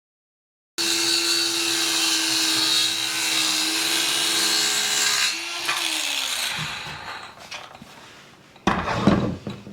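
Electric power saw cutting wood: it starts suddenly about a second in with a steady motor whine under the blade noise, then the motor winds down in falling pitch about five seconds in. A short knock or clatter near the end.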